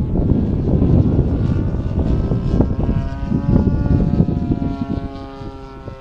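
Aeroworks Extra 260 RC plane's DLE 35 single-cylinder two-stroke gas engine running in flight, under heavy wind rumble on the microphone; from about halfway its steady engine note stands out more clearly.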